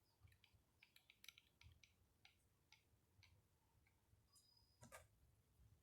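Faint, scattered light clicks and taps of small metal tools and parts being handled, with one sharper click about five seconds in.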